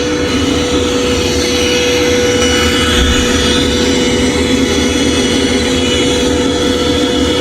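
Vacuum cleaner running steadily: a loud, even motor drone with a strong steady hum.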